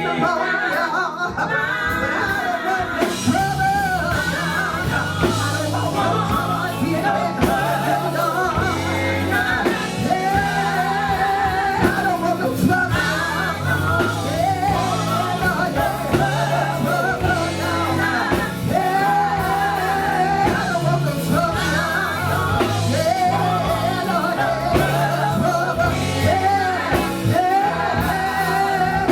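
Live gospel band performance: lead vocals and singing over electric guitar, bass and drums, with the sound of a large hall.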